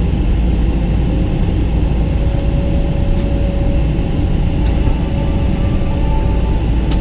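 Steady low rumble of cabin noise inside a Boeing 777-200 on the ground before takeoff, with a faint steady whine over it and a couple of faint ticks.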